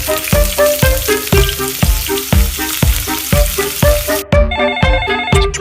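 Frying sizzle over an upbeat music track with a steady beat. The sizzle cuts off about four seconds in, leaving only the music.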